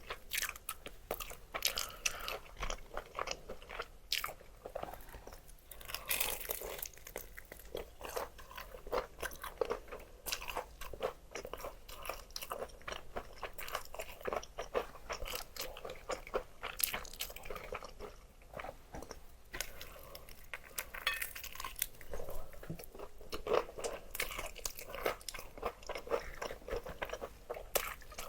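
Close-miked chewing and crunching of crispy fried chicken: a dense, irregular crackle of bites and chews.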